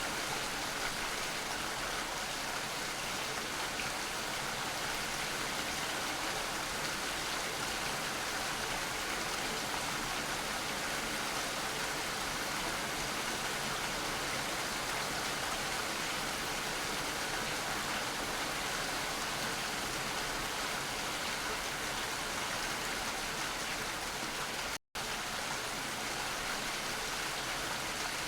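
Steady rain falling, an even hiss of drops without let-up. The sound cuts out completely for an instant about 25 seconds in, then carries on unchanged.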